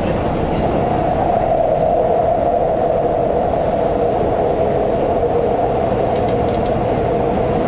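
Keihan Main Line electric train running through a tunnel, heard from inside the front passenger car: a steady rumble of wheels on rail and traction motors. A few faint high ticks come about six seconds in.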